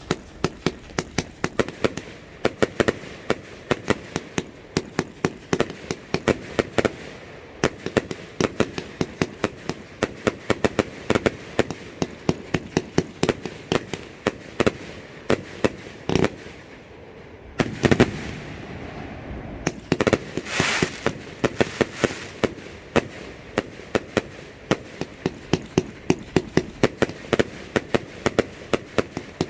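A 100-shot consumer firework cake firing, a rapid string of sharp pops and bangs several a second, with a brief lull and then a louder bang about eighteen seconds in.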